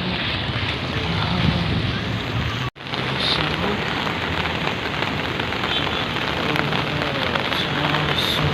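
Heavy rain falling, a steady dense hiss that cuts out for an instant about three seconds in.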